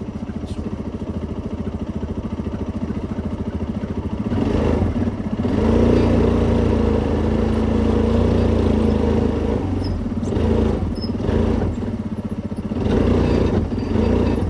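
A vehicle engine idling with an even beat, then speeding up about four seconds in and running louder under load as it drives off, easing briefly and picking up again near the end.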